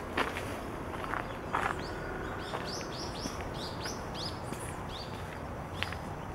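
A bird giving a quick run of short, high chirps, about seven or eight in a row from about two seconds in, with a few more near the end. Two or three footsteps on a path come in the first second and a half.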